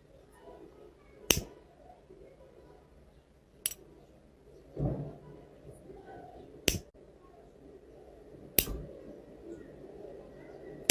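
Sharp, short snaps or clicks, four of them roughly two to three seconds apart, over a faint background.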